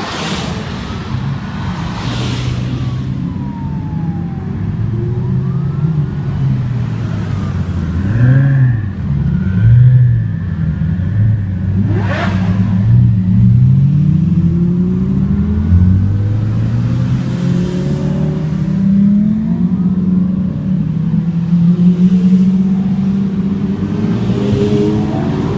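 Sports car engines revving and accelerating through the gears, the pitch climbing and dropping again and again, loudest about eight to ten seconds in.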